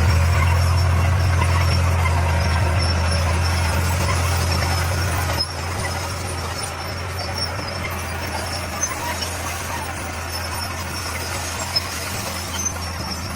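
D41 bulldozer's diesel engine running steadily under a faint high squeal, with a gravelly rattle over it; the engine sound drops suddenly in level about five seconds in and carries on lower.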